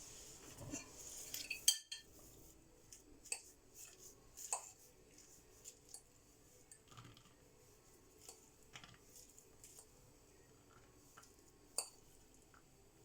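Faint, scattered clinks and taps of cutlery against dishes while food is handled, with the sharpest clink about two seconds in.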